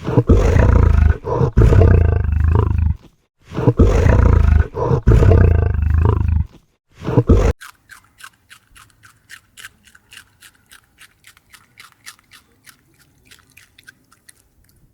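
A large animal giving two long, deep, loud calls and then a short one, followed by a run of faint, quick crunching clicks, several a second.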